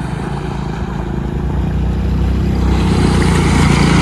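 A motorbike engine running as it comes through floodwater on the road, getting steadily louder as it approaches, over a constant rushing hiss.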